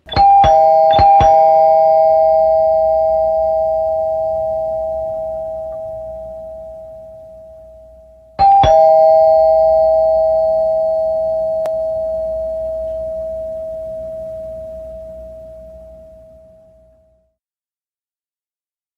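A two-note chime, like a doorbell. It is struck a few times in quick succession at the start and again about eight seconds later, and each time the two tones ring on and fade slowly.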